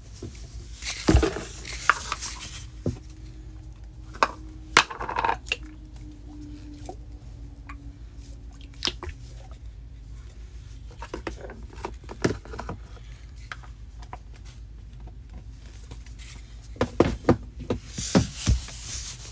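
Handling sounds of toys and plastic containers being moved and set into a storage box: scattered light clicks, knocks and rubbing, busier in the first few seconds and again near the end.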